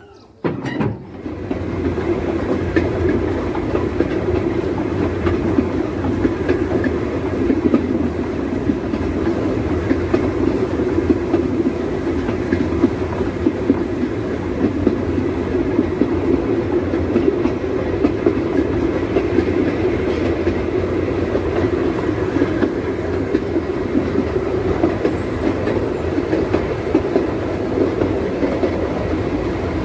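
Narrow-gauge steam train running along the line, heard from on board: a steady rumble and clatter of wheels on the rails, starting abruptly less than a second in.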